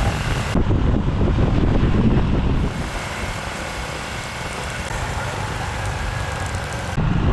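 Wind buffeting the microphone on a moving motorbike, with the bike's engine running underneath. The low rumble eases about three seconds in.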